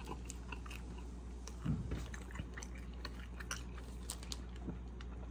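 Close-up mouth sounds of someone chewing a steak taco: small wet clicks and smacks. A brief low hum from the throat comes about a second and a half in.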